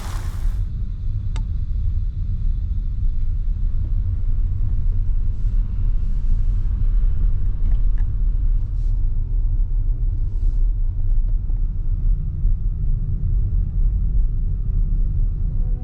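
A steady, deep rumble, loud and unsteady in level, with a few faint ticks over it.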